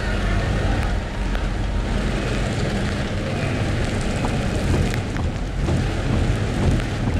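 Rain on a moving car: a steady patter of drops over a low rumble of engine and tyres on wet road.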